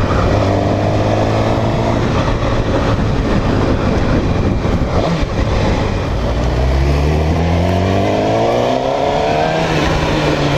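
Motorcycle engine running under way with heavy wind noise. It holds a steady pitch at first, then rises in one long pull from about the middle of the stretch before easing near the end.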